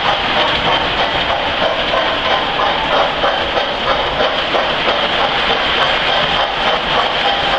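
Lionel 390E standard gauge tinplate model locomotive running steadily with its metal reefer cars, a continuous rolling noise with rapid clicking of the wheels over the track.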